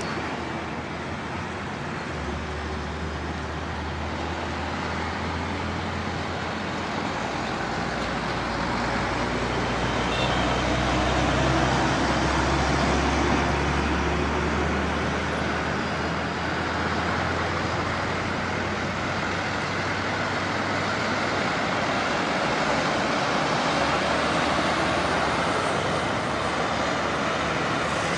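Road traffic with heavy trucks: tyre and road noise throughout, with a low engine drone from about two seconds in that dies away about halfway through.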